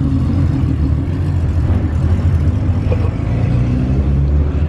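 Car engine running under way, a steady low rumble with road noise.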